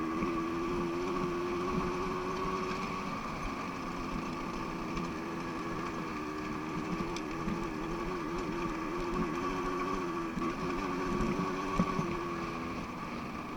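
Dirt bike engine running steadily, its pitch wavering up and down with the throttle, with a sharp knock near the end.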